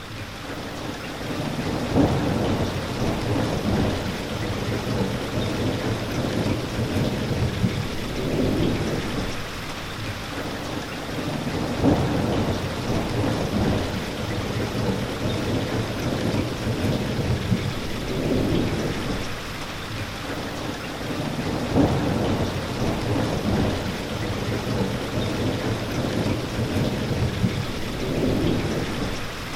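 Steady heavy rain with low rumbles of thunder that swell and die away every few seconds, fading in over the first two seconds.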